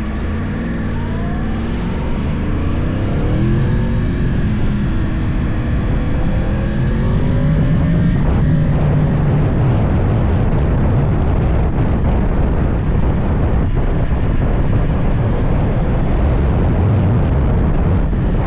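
Yamaha YZF-R1 crossplane inline-four through a full Akrapovič exhaust, heard from the bike while riding. The engine note rises and falls with throttle and gear changes over the first half. After about nine seconds it turns into a steadier rush of engine and wind noise at speed.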